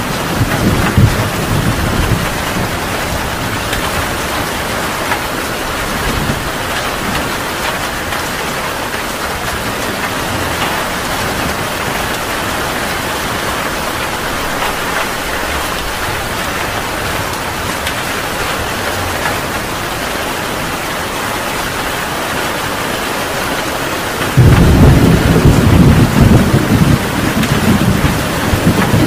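Heavy rain falling steadily in a thunderstorm. Thunder rumbles faintly at first and dies away, then a loud, low thunder rumble breaks in suddenly near the end.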